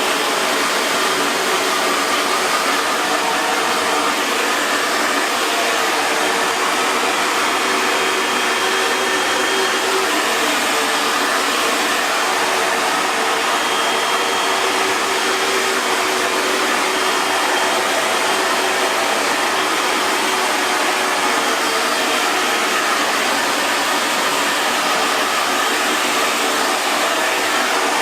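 Hair dryer running steadily: a constant rush of blown air with a faint motor hum underneath.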